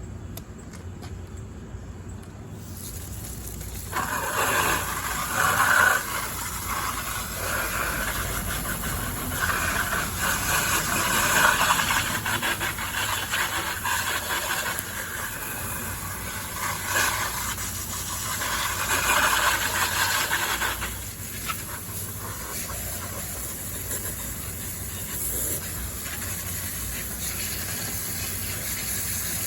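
Water from a garden hose spraying onto a plastic RC car to rinse off soapy cleaning solution. A continuous uneven hiss and splatter comes on a couple of seconds in, grows louder as the spray hits the car, and eases off near the end.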